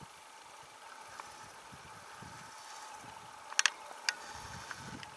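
Forest rustling in the wind: a steady faint hush, with a few short sharp clicks a little past halfway and soft low bumps near the end.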